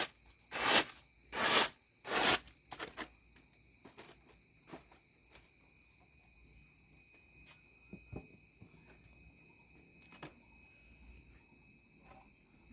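A few loud swishing strokes, evenly spaced, in the first two seconds or so, then scattered light clicks and taps. A steady high-pitched insect drone runs behind them.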